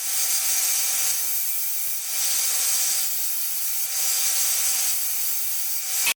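Homemade 2x48 belt grinder running with a workpiece held against the abrasive belt: a steady hiss of grinding over a motor whine, swelling roughly once a second as the piece is pressed in. It cuts off suddenly near the end.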